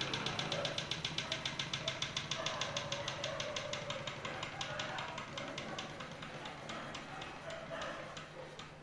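Small model Stirling engine running with a rapid, even ticking that grows fainter toward the end.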